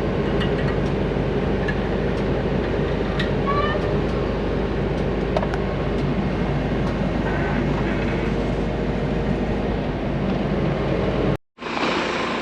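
Skid steer engine running steadily under work while grading, with a few light clicks and rattles. It cuts off abruptly near the end.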